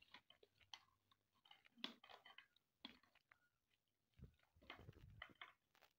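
Faint chewing and small mouth and hand clicks of someone eating, in scattered short bursts.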